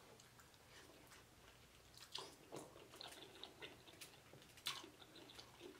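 Faint, wet mouth sounds of a person chewing saucy lobster meat: irregular smacks and clicks beginning about two seconds in, with one louder smack near the end.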